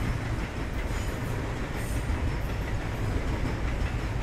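Train running on the tracks: a steady low rumble of wheels on rail with an even hiss above it.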